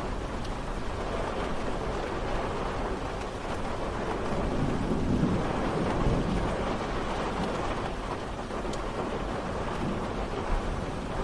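Steady rain falling, an even hiss. A low rumble swells up under it about four to six seconds in, then fades back.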